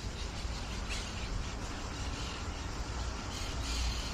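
Faint calls of a flock of feral parrots, a few short high chirps and squawks over a steady outdoor background with a low rumble.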